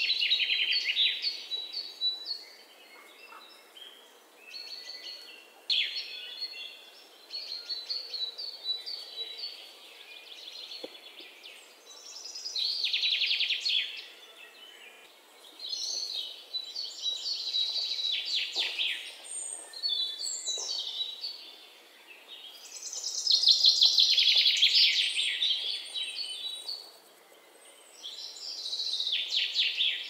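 Birds chirping and chattering in repeated bouts of rapid, high trills, each lasting a second or two, with quieter gaps between.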